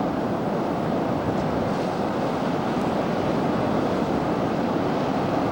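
Steady rushing of wind and sea surf, an even noise with no calls or distinct strokes.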